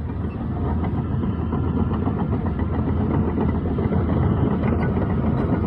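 Diesel engine of heavy landfill machinery running steadily, a low drone with some clatter, getting a little louder over the first couple of seconds.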